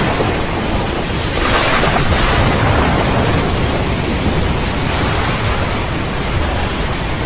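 Steady heavy rain with a deep rumble of thunder underneath, swelling briefly about a second and a half in.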